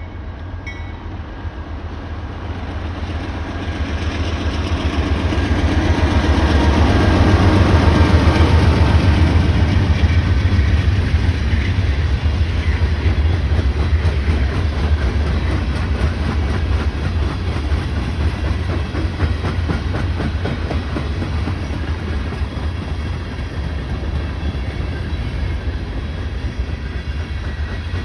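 Train passing close by: a diesel locomotive's engine builds to its loudest about eight seconds in as it goes past, then the railcars roll by with a steady clickety-clack of wheels over the rail joints.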